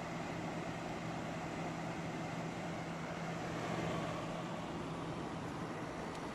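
Maytag 8000 BTU window air conditioner, built by Fedders, running with its fan on the low setting: a steady rush of air over a constant low hum. The fan is strong even on low.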